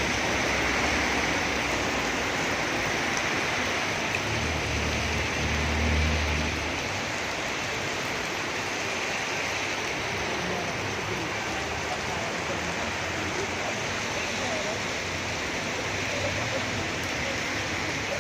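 Heavy rain falling in a steady, even hiss, with a low rumble swelling and fading about four to six seconds in.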